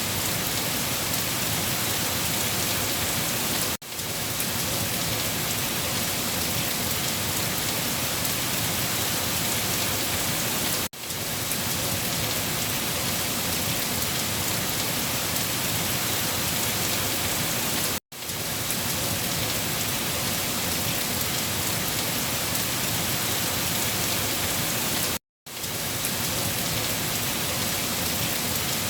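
Steady, heavy rain falling on a surface: an even hiss of countless drops. Four times, about every seven seconds, the sound drops out for a split second and comes straight back.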